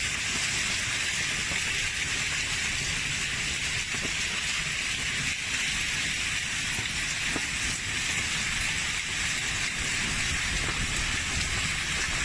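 Torrential rain from a summer hailstorm pouring down steadily, an even hiss with a few faint taps.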